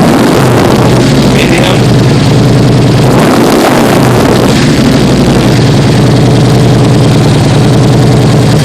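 Harley-Davidson Street Glide's V-twin running loud through CFR exhaust pipes and Freedom Performance aftermarket headers, a deep, throaty exhaust note. The throttle is blipped once about three and a half seconds in, then it settles back.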